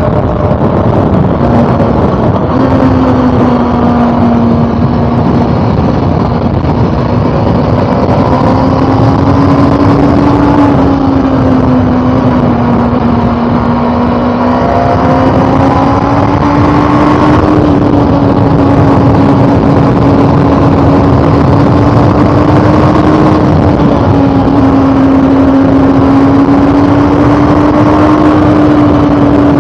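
Inline-four engine of a 2013 Honda CB400 Super Four Revo Hyper VTEC running under way at a fairly steady cruise, its pitch drifting slowly up and down, with wind rushing over the microphone.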